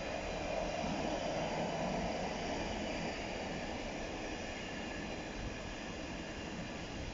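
Container wagons of an intermodal freight train rolling past on the track: a steady noise of wheels on rail, slightly louder in the first few seconds.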